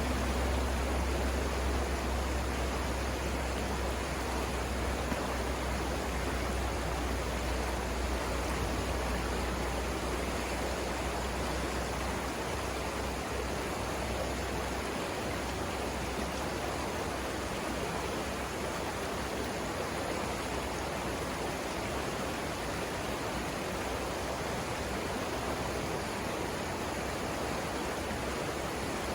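Steady rush of river water over the Savannah River rapids, an even hiss with no breaks. A low rumble underneath fades out about halfway through.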